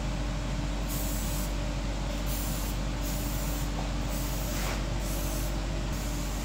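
Aerosol spray can hissing in about six short bursts, roughly one a second, the way penetrating oil is sprayed onto seized engine parts to soak them, over a steady low hum.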